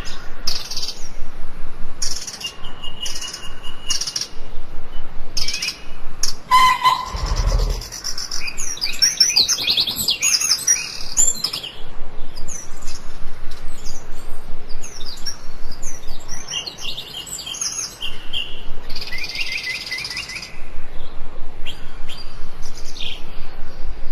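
Several songbirds chirping and trilling in quick, overlapping phrases, with a brief low thump about seven seconds in.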